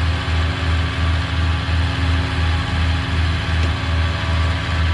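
Tow truck engine running at a steady idle with a low, even throb about two to three times a second, while the winch drums are being rewound.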